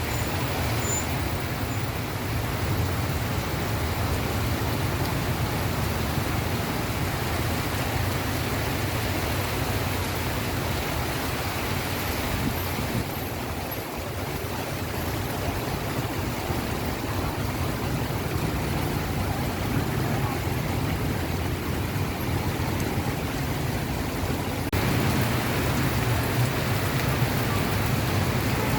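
Steady monsoon rain falling on a city street, with road traffic running underneath.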